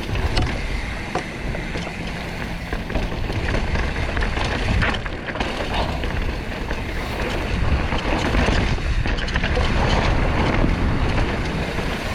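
Mountain bike rattling and clattering over rocky trail at speed, with many short knocks from tyres and suspension on rock, and wind rushing over the microphone.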